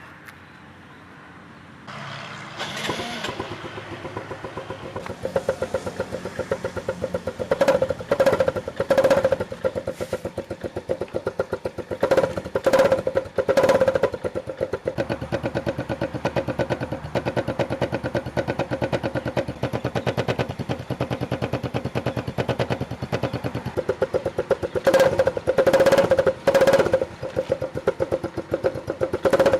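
A homemade coffee-cup motorcycle-sound gadget buzzing with a rapid run of clicks like a small engine. It starts about two seconds in and surges louder again and again, as if revved.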